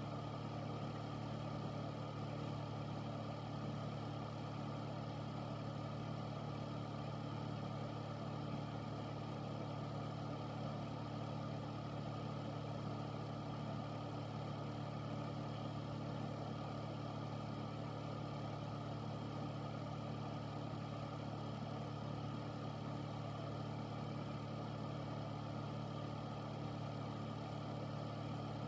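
Air filter running steadily: a constant motor hum with the rush of air through the fan.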